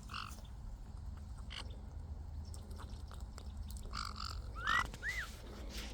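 Kākāriki (New Zealand parakeets) calling: a brief chattering call just after the start, two short calls about four seconds in, then two quick rising-and-falling whistles around five seconds, over a steady low background rumble.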